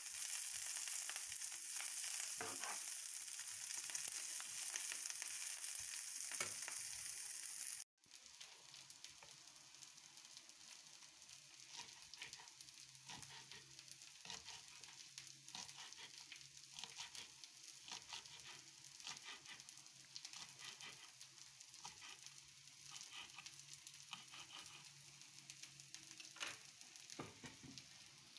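Wild greens sizzling as they sauté in a pan, loud for the first eight seconds. After a brief break, the frying goes on more quietly with scattered clicks.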